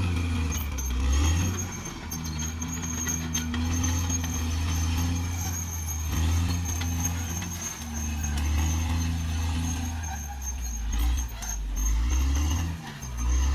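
Caterpillar D6R XL bulldozer's diesel engine running under changing load, its note dropping and picking up again several times, with a thin high whine and a few metallic clanks from the machine.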